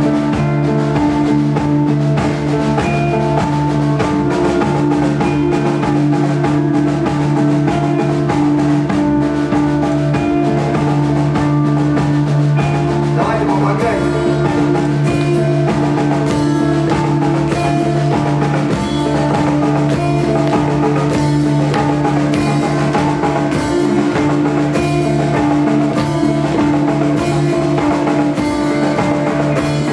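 Live rock band playing: drum kit and guitars over sustained droning held notes, in a psychedelic rock style.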